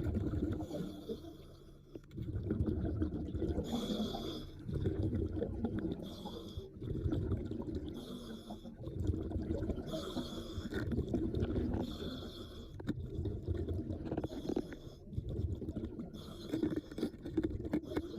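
Underwater breathing of a diver through a regulator: a low bubbling rumble on each exhale and a short hiss on each inhale, repeating every couple of seconds.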